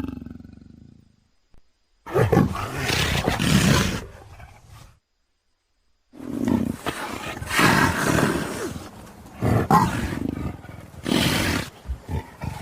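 Roaring creature sound effects. One roar starts about two seconds in and dies away after about three seconds. After a short silence, a longer run of roars rises and falls several times.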